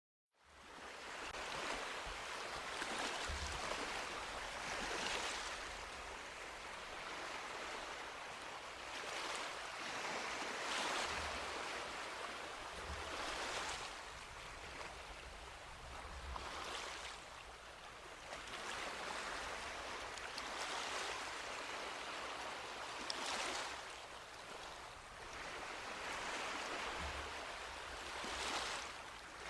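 Sea waves washing onto a beach, a steady rush that swells every few seconds as each wave breaks and runs up the sand. The sound fades in right at the start.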